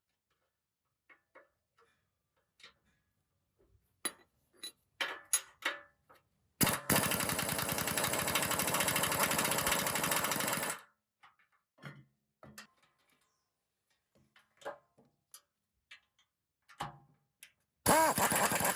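Metal parts clicking and clinking as they are handled, then a power tool runs for about four seconds with a fast, even rattle. Another short burst near the end, whose pitch dips and rises as the tool slows and speeds up.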